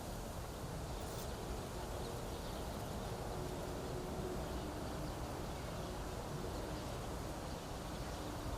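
Steady wind blowing through reeds, a low, even rush with rumble on the microphone. A faint steady hum sits underneath through the middle.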